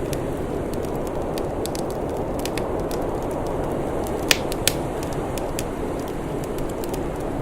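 Wood fire crackling, with many small snaps and two sharper pops, close together, about four and a half seconds in, over a steady rushing background noise.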